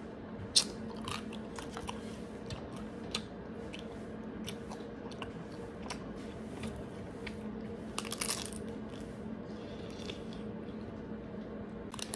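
Close-up crunchy biting and chewing of a frozen fruit-leather snack wrapped around ice cream: the hard shell cracks in sharp crackles, with a dense burst of crunching about eight seconds in. A faint steady hum runs underneath.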